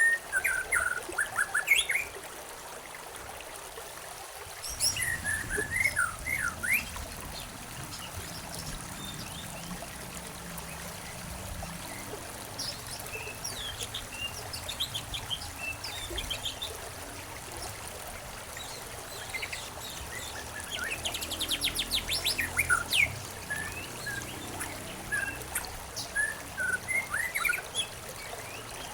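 Songbirds chirping and trilling in short bursts over the steady trickle of running water; a lower rush of water joins about four seconds in.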